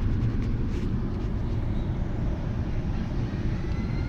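A steady low rumble, with a few faint clicks about a second in and faint thin chirps near the end.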